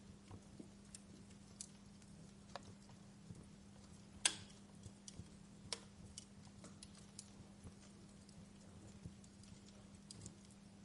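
Wood fire crackling: irregular sharp pops and snaps, one louder pop about four seconds in, over a faint, steady low hum.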